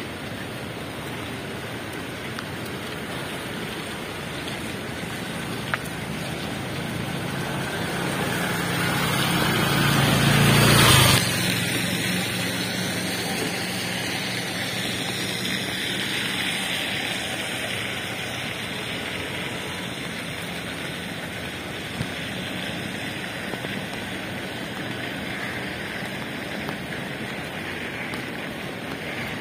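Steady rushing of the flooding river and rain. A vehicle approaches and passes, growing louder to a peak about eleven seconds in and then dropping away sharply.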